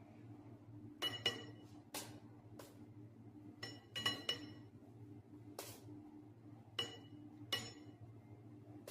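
Light, irregular clinks of a kitchen utensil striking a glass dish, about ten in all, each with a brief ring, over a steady low hum.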